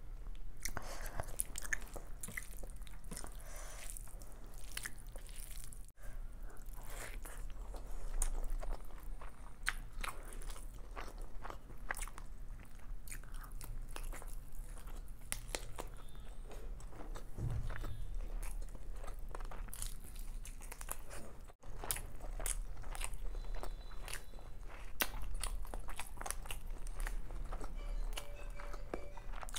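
Close-miked eating sounds: chewing and biting of hand-eaten chicken biryani, with irregular crackling mouth noises throughout. Near the end comes a crunchy bite into a raw red onion.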